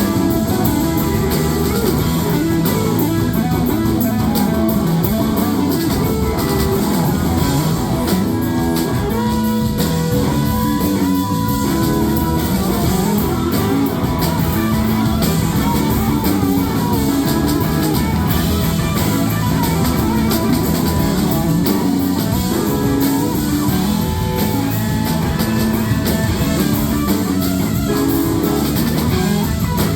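Rock band playing live: an instrumental passage with electric guitar to the fore over a drum kit, with a few gliding guitar notes.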